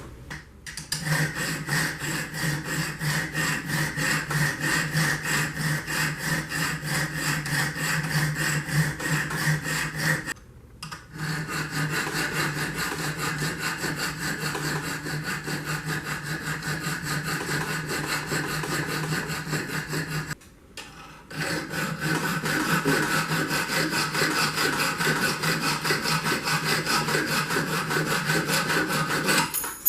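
Diamond round file sawing back and forth through a heat-treated 1085 carbon steel corkscrew in rapid, even strokes. There are two brief breaks, about ten and twenty seconds in.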